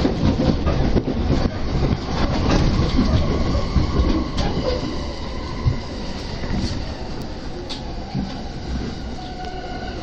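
Ride noise inside a JR Keiyo Line electric commuter train: a steady rumble of wheels on the track that grows gradually quieter as the train slows for a station. A faint high whine sets in about halfway through.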